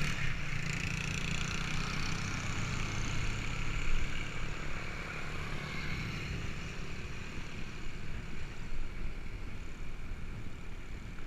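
A motor vehicle's engine running, its low hum fading after about six seconds, over a steady rushing noise.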